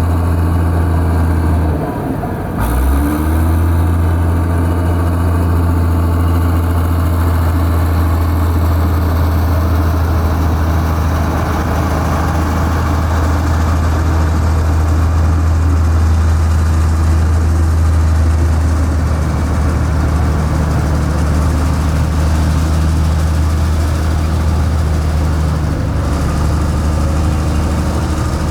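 Heavy construction machine's diesel engine running steadily, with a brief drop and rise in pitch about two and a half seconds in.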